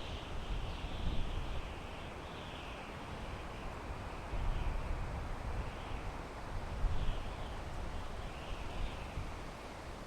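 Wind blowing through pine trees, rising and falling in gusts, with a deep rumble of wind buffeting the microphone; it swells a little before halfway and again later on.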